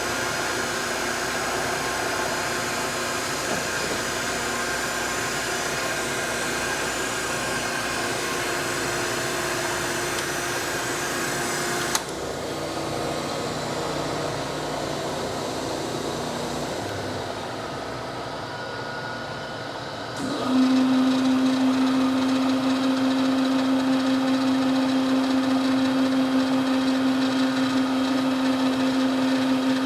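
Gallmeyer & Livingston No. 55 surface grinder running, a steady mechanical whir. The sound changes abruptly about twelve seconds in and drops lower. About twenty seconds in, a louder steady low hum starts and holds.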